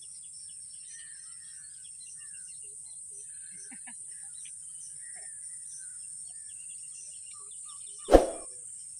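Scattered faint bird chirps over a steady high-pitched hiss, with a single loud thump near the end.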